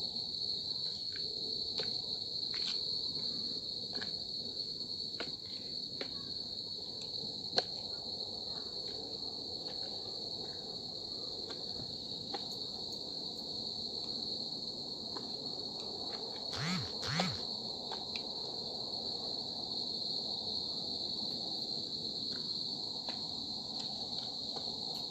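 Steady, high-pitched drone of insects chirring, with scattered faint clicks, a single sharp tick early on and two short louder sounds a little past halfway.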